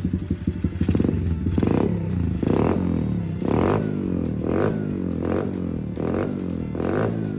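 YCF 88 pit bike's small single-cylinder four-stroke engine being blipped, revving up and dropping back about once a second, running again after its ethanol-gummed carburetor was cleaned.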